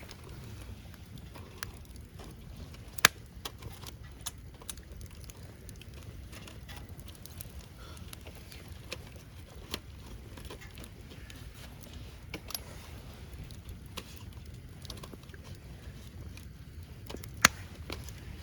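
Wood fire crackling in a fire pit: scattered small pops over a low steady rumble, with two sharp, louder cracks about three seconds in and near the end.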